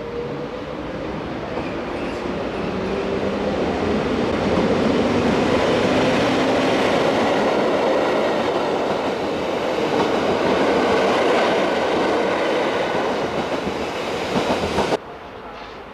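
A train passing close by, its running noise building over the first few seconds and staying loud, then cutting off abruptly near the end.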